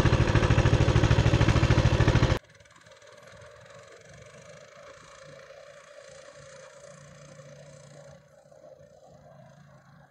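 Small petrol engine running close and loud with a fast, even pulse, cutting off suddenly about two seconds in; after that a much fainter engine runs steadily at a distance and fades out near the end.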